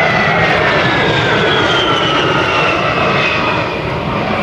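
A-10 Thunderbolt II's twin TF34 turbofan engines roaring and whining in a flyby. The whine falls steadily in pitch as the jet passes.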